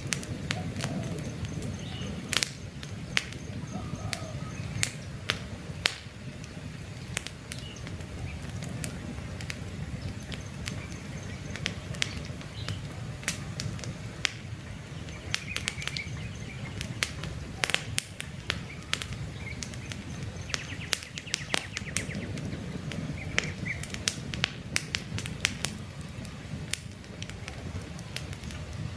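Wood campfire crackling, with frequent sharp, irregular pops over a low, steady rumble of flame. Birds chirp faintly in the background now and then.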